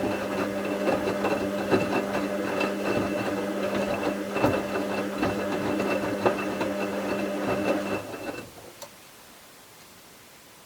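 Bauknecht WA 7778 W washing machine running mid-wash: a steady motor hum with clicking and rattling from the drum, which stops abruptly about eight seconds in, leaving only a faint background.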